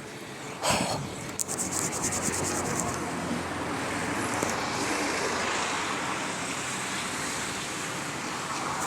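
A motor running steadily: a low hum under an even hiss, with a rapid run of fine ticks for about a second and a half near the start.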